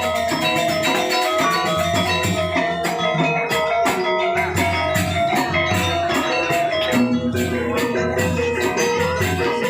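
Balinese gamelan playing: struck metallophones ring out a busy melody, with fast, even strokes above it.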